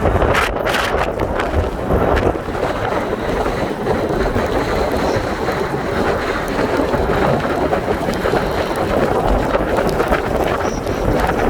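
Heavy rain pouring down, with wind buffeting the microphone in a steady, loud rush.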